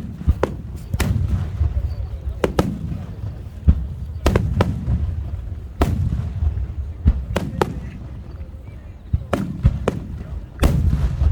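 Aerial firework shells bursting in quick, uneven succession: a dozen or more sharp booms, some in close clusters, with a low rumbling echo after them.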